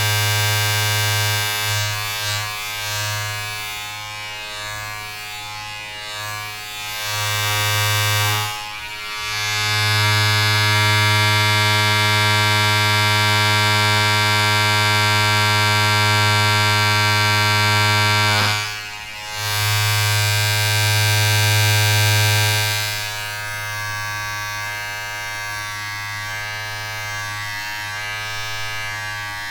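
Steady electric buzzing hum from a small appliance motor, with a low drone and many overtones. It swells and fades and drops away briefly twice, about a third and about two thirds of the way through.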